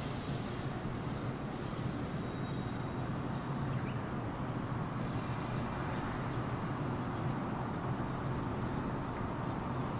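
Steady low hum and rumble of a JR 115-series electric train.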